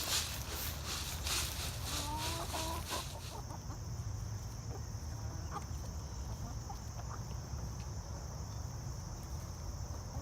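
Chickens clucking, with rustling for the first few seconds. About three seconds in a steady high-pitched buzz starts abruptly and continues under the scattered clucks.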